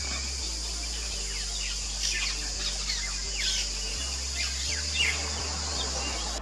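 Fairy martins calling: scattered short, falling chirps, a few a second.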